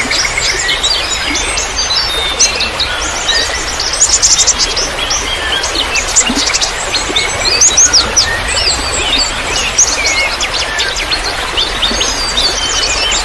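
Many small songbirds chirping and trilling at once, dense overlapping calls with no pause, over a steady hiss of trickling water.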